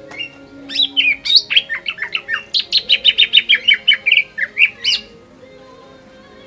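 Green leafbird (cucak ijo) singing a fast, loud burst of song: a rapid run of sharp, repeated notes lasting about four seconds, which stops abruptly about five seconds in.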